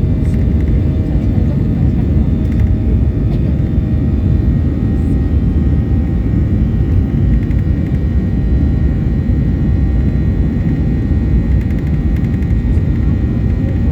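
Steady cabin noise inside a Boeing 737-800: a loud, even low rumble from its CFM56 jet engines and airframe, with a faint steady whine above it.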